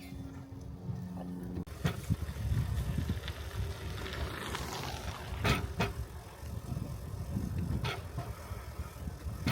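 A rail bike's wheels rolling along the track: a steady low rumble with a few sharp clicks, one about halfway through and one near the end. In the first couple of seconds a steady hum is heard instead, and it cuts off abruptly.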